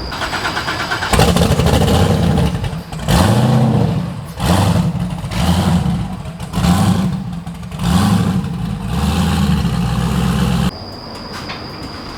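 Car engine cranking briefly, catching about a second in, then running with about six quick revs of the throttle; the engine sound cuts off abruptly near the end.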